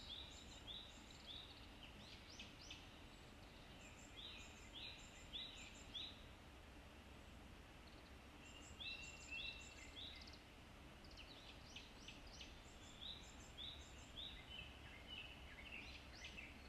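Faint birdsong: phrases of short, high chirping notes repeated with pauses, over a faint low steady hum.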